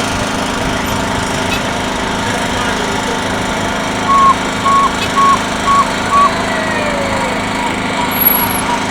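Motorbike engines running with a steady drone, and a horn beeping five short times in quick succession about halfway through.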